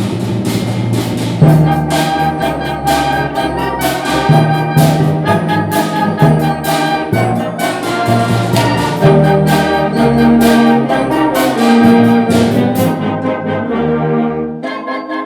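A school band playing live: brass holding chords over regular percussion hits that fall about twice a second.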